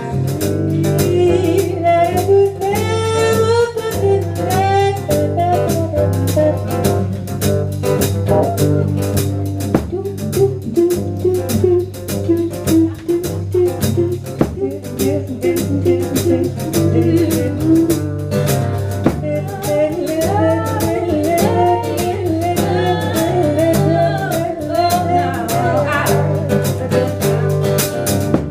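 Live band music: drum kit keeping a steady beat under bass and guitar, with a bending lead melody carried over the top in two stretches.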